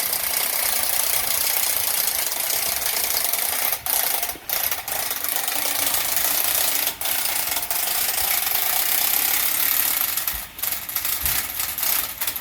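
Manual lift for air-conditioner indoor units being raised, its winch and telescoping mast running with a steady mechanical grinding and rubbing. There are a few brief pauses, about four and seven seconds in, and again near the end.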